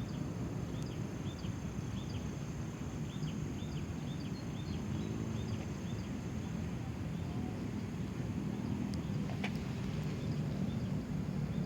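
Yamaha RX-King two-stroke single idling steadily through an aftermarket HNR exhaust, a low even rumble, with birds chirping over it in short repeated calls.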